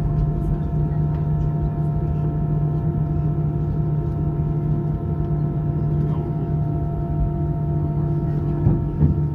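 Steady drone of a jet airliner's engines and airframe heard inside the passenger cabin, holding an even pitch with a few steady hum tones. A couple of small knocks come near the end.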